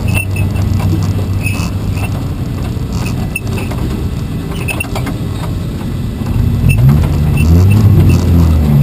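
Car engine of a 24 Hours of Lemons race car running, its pitch rising as it revs up and accelerates in the last few seconds.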